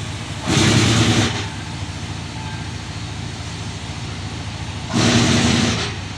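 A vehicle engine running steadily, with two brief louder surges of rushing noise, about half a second in and again about five seconds in.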